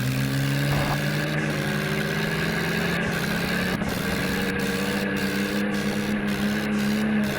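Tractor diesel engine running steadily, its pitch shifting up and down slightly.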